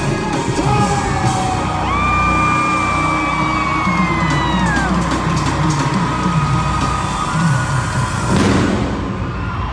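Loud concert music through the arena PA, recorded from the crowd. It has a repeating bass beat and long held high notes that slide down at their ends, with crowd yelling over it and a rushing sweep near the end.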